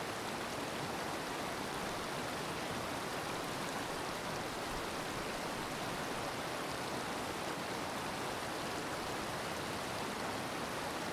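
Steady rush of flowing water, an even unbroken hiss with no distinct splashes or drops.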